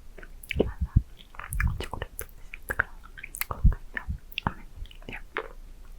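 Close-miked mouth sounds of a hard candy being licked and sucked: a rapid, irregular run of wet clicks and smacks with a few deeper thuds.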